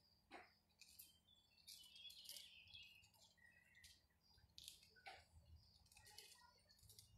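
Faint birds chirping in short, scattered calls, with one quick falling call near the start.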